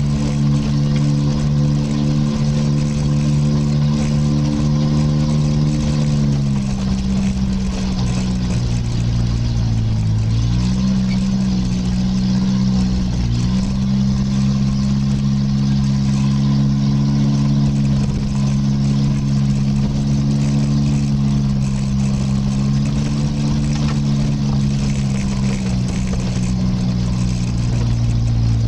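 Vehicle engine running steadily at low speed on a rough gravel track. Its pitch drops about six seconds in, dips and climbs again around ten seconds in, and steps down once more around thirteen seconds in as the revs change.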